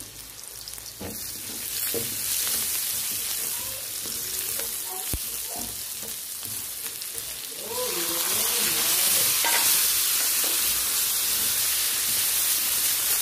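Chopped onion and garlic sizzling in hot oil in a wok, stirred with a spatula that scrapes and taps the pan. The sizzle gets louder about eight seconds in.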